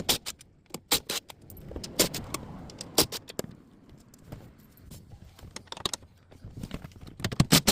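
Sharp metallic clicks and clinks of hand tools: a socket wrench working on the 14 mm bolts that hold the dashboard crash bar, with quick runs of clicks near the end.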